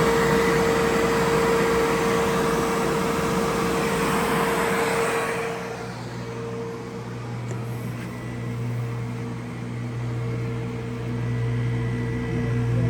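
Heat pump air conditioner on a weatherized enclosure running its cooling circuit: a loud rush of blowing air with a steady tone over it, which stops about five and a half seconds in, leaving a lower, quieter steady hum.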